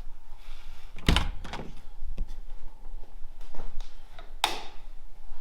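A series of knocks with two loud thuds, the first about a second in with a deep boom and the second a sharper bang a few seconds later.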